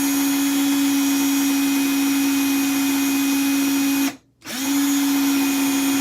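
Power drill running at a steady speed as it drills out a stripped screw in an aluminium ceiling-fan part. It stops a little past four seconds in, then starts again about half a second later.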